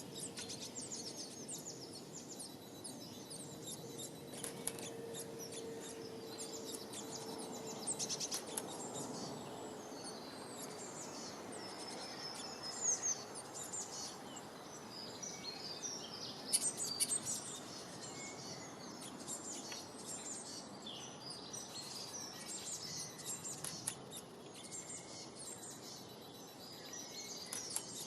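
Many small birds chirping and twittering, with short, high calls coming thick and fast over a steady background rush.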